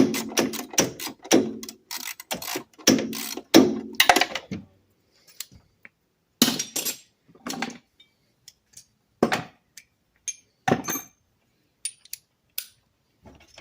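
Metal hand tools clicking and clanking on metal. A quick run of clicks and knocks comes first, then after about four seconds a few separate clinks and knocks with pauses between.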